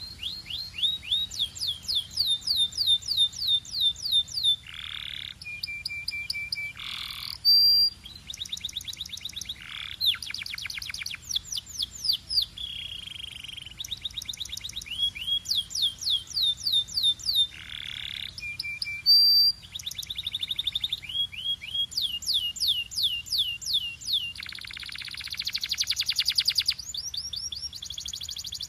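Domestic canary singing a long, continuous song: fast trills of repeated downward-sliding whistled notes, broken by buzzy rolls and a few short steady notes, with a very rapid dense trill near the end.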